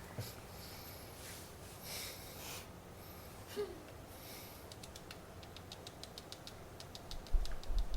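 Faint handling of board-game pieces on a table: soft rustling, then a quick run of small clicks about five seconds in, and a low bump near the end.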